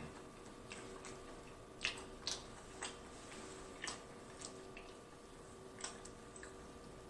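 A person chewing a mouthful of pizza: about half a dozen soft, scattered wet mouth clicks and smacks over a faint steady hum.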